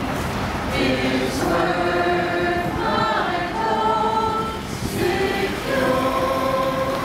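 A group of voices singing a slow hymn together in long held notes, with wind rumbling on the microphone underneath.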